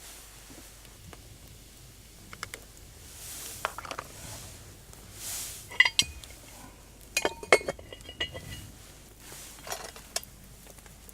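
Metal cookware and utensils clinking and clattering as they are handled, with a few sharp ringing knocks a little past the middle.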